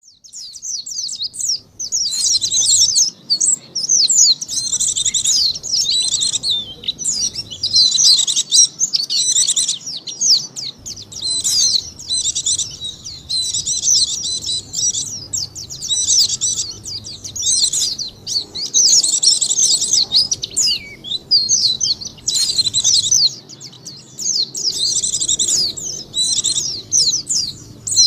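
White-eyes (pleci) singing in rapid, high twittering phrases with short gaps between them, starting about a second and a half in. This is a lure-call recording, used to draw in wild white-eyes.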